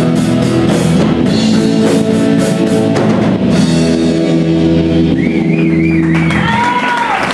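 Live rock band playing: electric guitar chords held over a drum kit, with a high wavering lead line entering about five seconds in.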